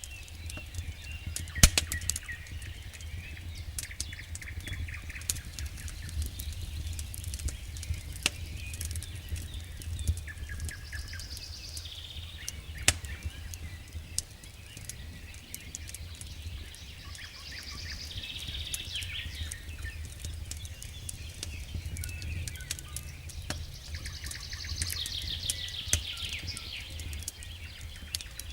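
Wood fire burning in a fireplace, crackling with a scatter of small sharp pops and a few louder snaps, over a steady low rumble and patches of hiss.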